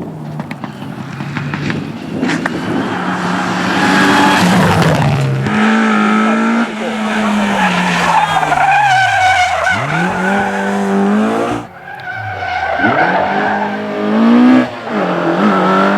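Rally car engines revving hard, their pitch climbing and falling sharply through gear changes and lifts, with tyres skidding. A string of short passes, with a sudden change of sound about five seconds in and again near the end of the twelfth second.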